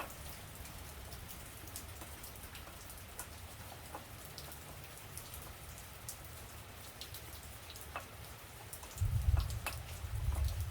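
Rain falling steadily, a constant patter with scattered sharp drop ticks. About nine seconds in, a low rumble swells up, and it returns near the end.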